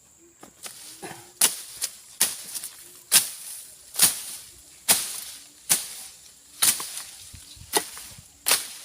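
A blade slashing through grass and undergrowth in steady, even swings: about ten sharp swishing cuts at a little over one a second.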